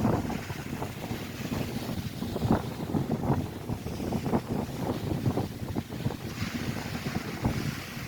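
Strong wind buffeting the microphone over waves breaking on the Lake Erie shore, with gusty low rumbling throughout; about six seconds in, the rushing hiss of a wave washing in rises over it.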